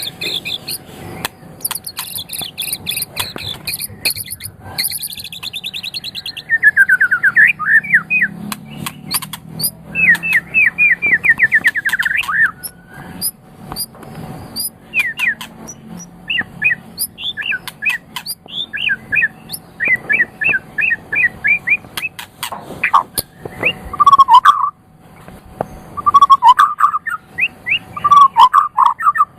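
White-rumped shama (murai batu) singing a long, varied song. It moves from fast high trills into quick runs of short sweeping notes, and turns to lower whistled phrases in the last few seconds.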